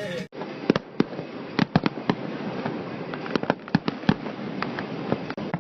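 Aerial fireworks going off: an irregular run of sharp pops and bangs, a dozen or more, over a steady background hiss.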